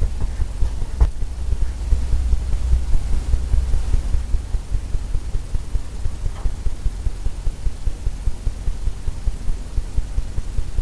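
A low, fluttering rumble, steady throughout, with a faint tap about a second in.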